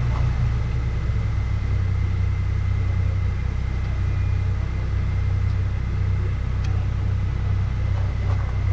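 Steady low machine rumble with a thin, faint high whine over it.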